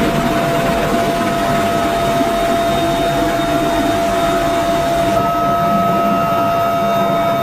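Helicopter turbine engines running: a steady loud rush with a high, even whine over it. The tone shifts abruptly about five seconds in.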